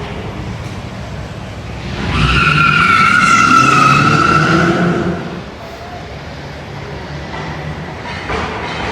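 Stage 2 Dodge electric muscle car accelerating hard past the listener, its tyres squealing for about three seconds in the middle, over the low drone of its synthetic engine sound.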